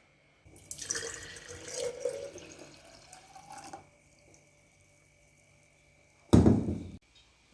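Water running from a tap for about three seconds, with a faint rising tone as a container fills. A loud, short thump comes near the end.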